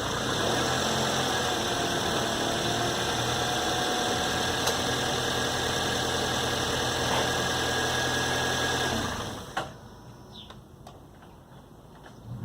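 2006 Toyota Corolla engine running with a steady whine, stopping about nine seconds in, followed by a sharp click.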